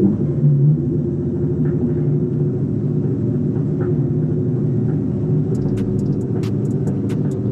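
Mitsubishi Eclipse's four-cylinder engine idling steadily, heard from inside the cabin just after being started. A string of faint clicks comes in near the end.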